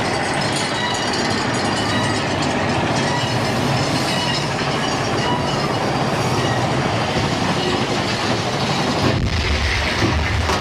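Big Thunder Mountain Railroad mine-train roller coaster running along its track, a steady rattle and rumble of wheels on rail with faint high wheel squeal. About nine seconds in the low rumble grows heavier.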